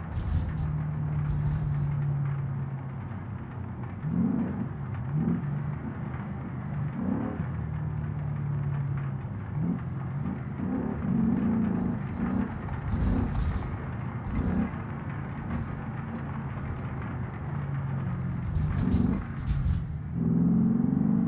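Porsche Cayenne Turbo S engine running at low speed, heard from inside the cabin as a steady low hum with scattered thumps and brief rustles. Near the end the engine note begins to rise as the car accelerates.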